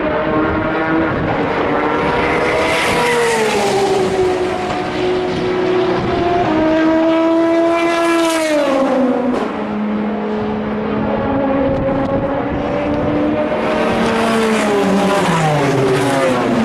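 Endurance race cars passing one after another at speed. Each engine note drops in pitch as the car goes by, about three times, with other cars' engines running underneath.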